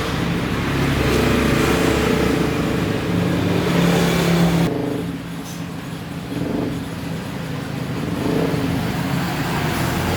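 A motor vehicle engine running and revving, dropping away abruptly about halfway through and building back up near the end.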